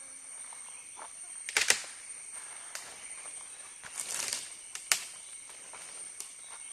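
Rainforest insects droning steadily on a few high, even tones. Over them come several short, sharp noises: one about a second and a half in, a longer one around four seconds, and a brief one just before five seconds.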